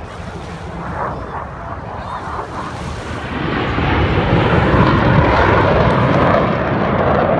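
Aircraft engine noise of a plane passing over, swelling from about three and a half seconds in and staying loud.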